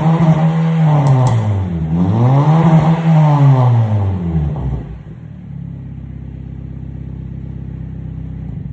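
Honda City GM2's exhaust through an aftermarket Alpino S03 muffler with the resonator deleted: the engine is held at high revs, drops, is revved again, then falls back and settles to a steady idle about five seconds in.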